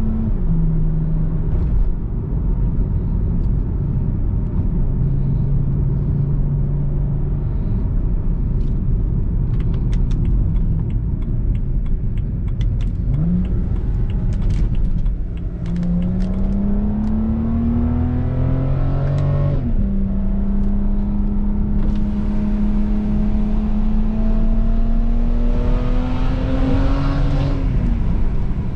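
BMW 335i E93's straight-piped twin-turbo inline-six under way: cruising at low revs with a run of sharp exhaust pops and crackles, then two pulls with the revs rising. The pitch drops sharply at a gear change between them, and the revs fall off near the end.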